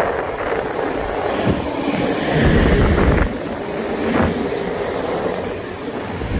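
EP09 electric locomotive and its train at the platform during uncoupling: steady machinery noise with a few separate knocks and a heavy low rumble lasting about a second, starting about two and a half seconds in.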